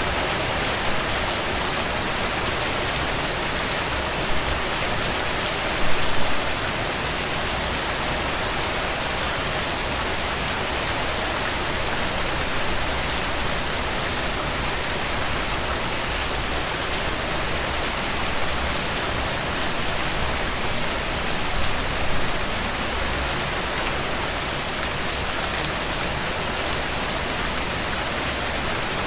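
Steady rain pattering on a tent. It runs as an even hiss of fine drop ticks, with two brief louder spots: one about six seconds in and one a little past the middle.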